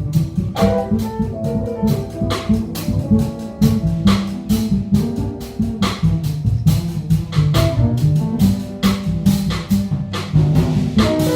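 Live jazz piano trio playing: piano over double bass and drum kit, with cymbal strokes keeping a steady swing.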